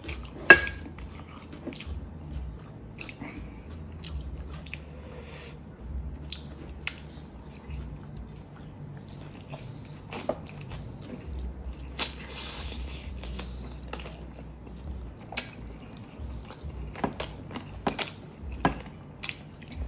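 A person chewing and biting chicken adobo drumstick meat and rice eaten by hand, with irregular sharp clicks and smacks throughout.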